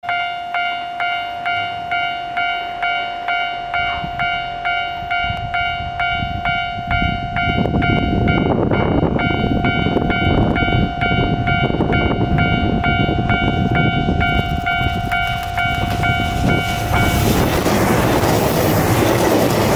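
Japanese level-crossing warning signal ringing in a steady rapid ding-ding, about two strikes a second, over a held tone. From about seven seconds in, a JR Shikoku 2700 series four-car diesel express train approaches and its noise of engines and wheels on the rails grows loud as it passes close by. The crossing bell stops near the end while the train rushes past.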